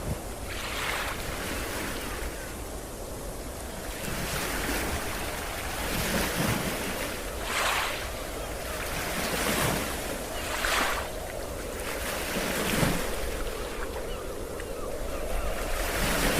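Ocean waves washing up on a beach in repeated surges every second or two, with wind rumbling on the microphone.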